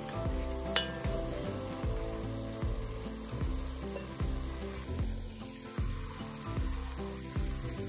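Ground meat and onions sizzling as they fry in a cast-iron pot, stirred with a wooden spoon, under background music with a steady beat.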